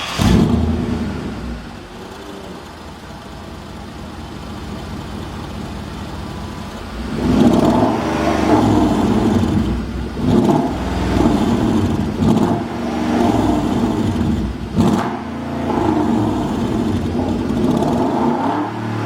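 Genesis Prada's 5.0 V8 running through a custom valved exhaust: a loud surge at the very start that settles to a steadier low idle, then from about seven seconds in repeated revs that rise and fall.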